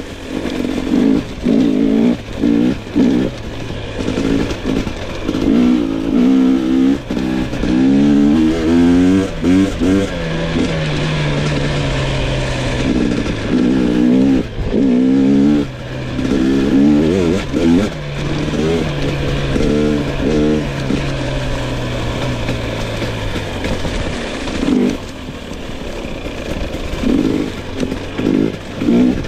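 2022 GasGas EX 250 fuel-injected two-stroke dirt bike engine revving in short throttle bursts again and again, with a lower, steadier running note between the blips.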